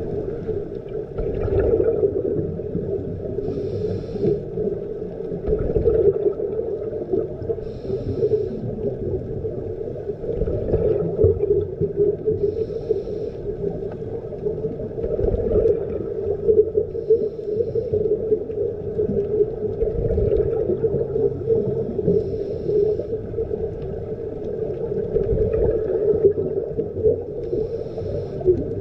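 Underwater sound of a scuba diver breathing through a regulator: a short hiss about every four to five seconds, with bubbling rumble in between, over a steady drone.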